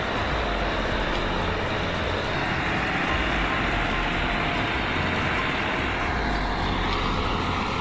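A tractor engine running steadily, a continuous heavy rumble.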